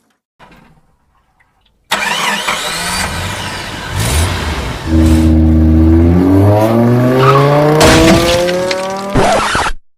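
Car engine sound effect: engine noise comes in about two seconds in, settles into a steady run, then revs up with a rising pitch for several seconds and cuts off abruptly near the end.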